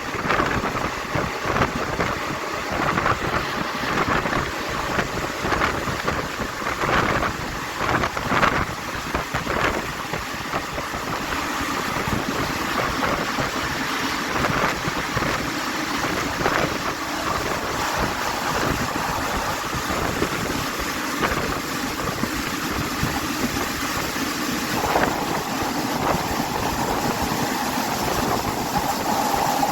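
Passenger train running along the track, heard from on board as a steady rush of wheel and wind noise with clattering knocks, denser in the first ten seconds. About 25 seconds in, a steady whining tone joins and holds as the train nears the station.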